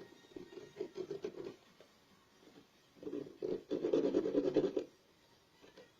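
Permanent marker scratching across a milk carton in quick back-and-forth colouring strokes, in two spells: a short one at the start and a louder, longer one from about three seconds in.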